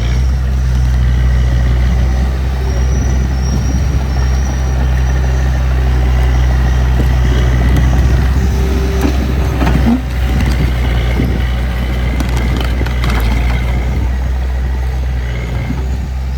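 Diesel engine of a small bulldozer or dump truck running steadily under work, with faint metallic squeaks and clatter on top.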